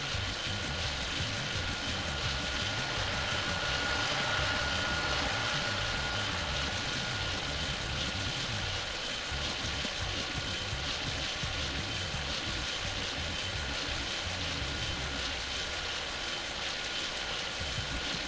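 Airbus A380 jet engines heard as a steady rushing noise with a faint whine that swells a little about four seconds in, then eases.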